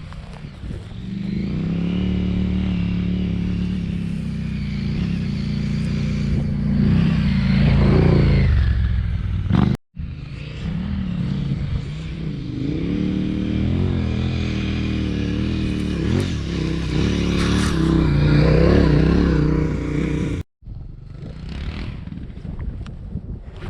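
Adventure motorcycle engine running under load, its pitch rising and falling as the throttle is worked, cut off abruptly twice.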